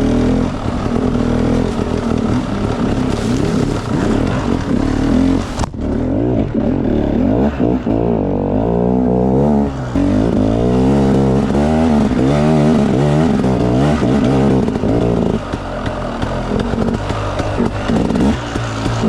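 Enduro dirt bike engine revving hard, its pitch rising and falling over and over as the throttle is worked on an off-road trail.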